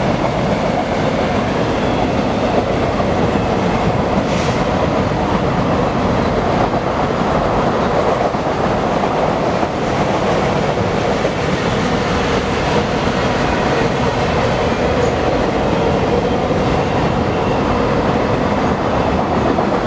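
A long freight train's cars rolling steadily past, steel wheels running on the rails.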